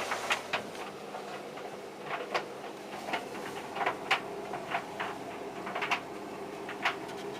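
Tumble dryer running with a load of jeans: a steady motor and drum hum, with irregular clicks and knocks as the tumbling load strikes the drum.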